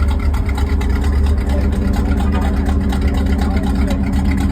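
A car engine idling steadily, with a deep, even exhaust note.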